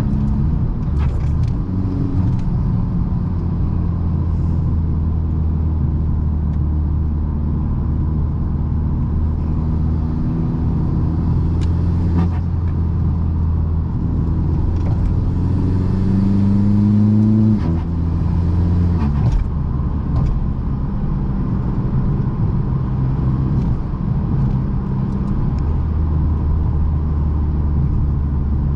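Modified 2.0 TDI common-rail diesel engine with an upgraded turbo and custom stainless exhaust, driving at steady revs. About halfway through the revs climb under acceleration for a couple of seconds, then drop off sharply, with a second drop a moment later, before it settles back to a steady cruise.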